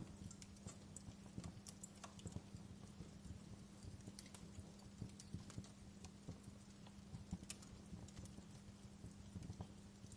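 Wood fire burning in a fireplace, crackling quietly with frequent irregular pops and snaps over a faint steady low hum.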